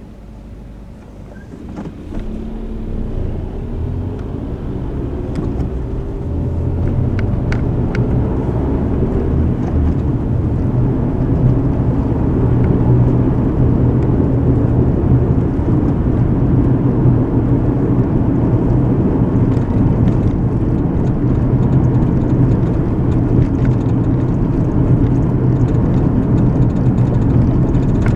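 Car pulling away from a stop, heard from inside the cabin: quiet for about two seconds, then the engine note rises as it accelerates, settling after about ten seconds into a steady drone of engine and tyre noise.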